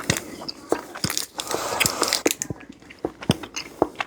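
Close-up chewing and crunching of a hard sour fruit chew: irregular sharp crunches and clicks of the candy breaking between the teeth, with wet mouth sounds.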